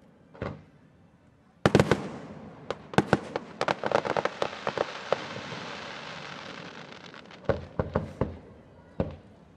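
Aerial fireworks shells being launched and bursting: a single bang about half a second in, a loud burst of reports about a second and a half in followed by a run of sharp cracks and a crackling hiss that fades away, then another quick cluster of bangs near the end.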